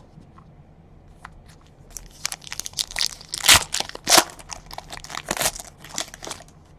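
Plastic trading-card pack wrapper crinkling and crumpling in the hands, a dense run of crackles starting about two seconds in and dying away near the end, as a pack is torn open and its wrapper balled up.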